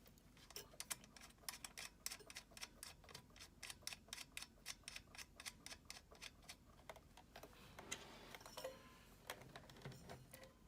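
Faint quick clicking, about four clicks a second for several seconds, then a few scattered clicks near the end: a star (Phillips) screwdriver turning screws back into a halogen convection oven's lid.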